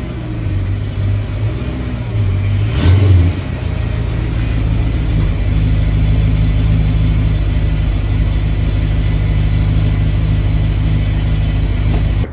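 Car engine running, with a short, louder burst about three seconds in, then running on more steadily.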